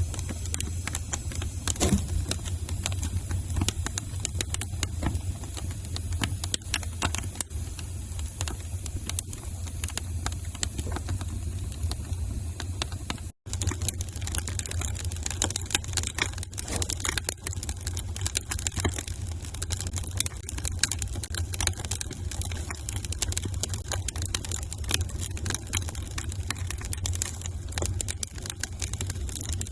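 Wood fire crackling in a fireplace: irregular sharp pops and snaps over a steady low rumble. The sound cuts out for an instant about 13 seconds in.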